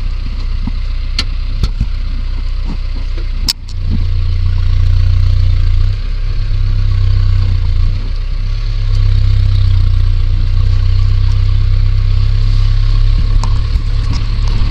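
A vehicle's engine running steadily as it drives. A sharp click comes about three and a half seconds in, and the engine is louder after it.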